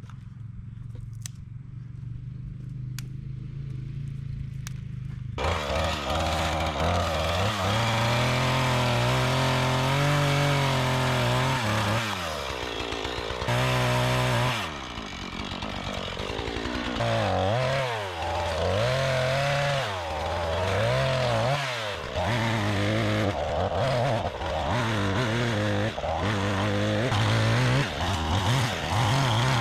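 Chainsaw idling, then about five seconds in throttled up to a loud run, its engine pitch dropping and rising again and again.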